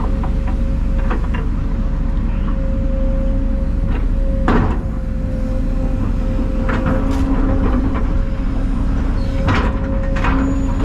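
Heavy diesel machinery running steadily with a constant whine, broken by several sharp knocks and clanks, the loudest about four and a half seconds in and again near the end.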